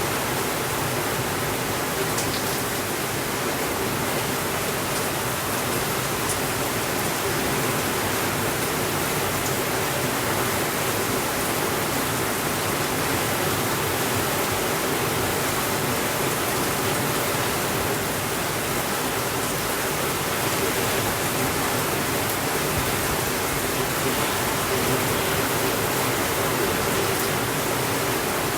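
Steady rainfall, an even hiss with no let-up, with a few faint ticks in the first ten seconds.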